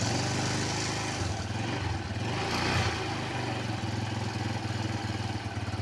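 Yamaha Jupiter Z1 single-cylinder four-stroke engine idling steadily with an even, pulsing beat, running after its cam chain and cam chain tensioner pad have been replaced.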